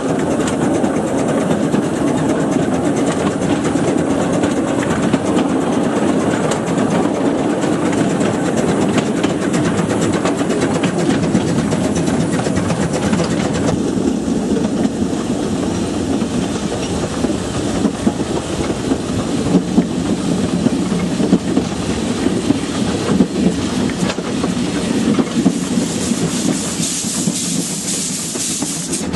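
Narrow-gauge train heard from aboard while moving: a steady rumble of wheels on the rails with constant rattling of the cars. A high hiss grows louder near the end.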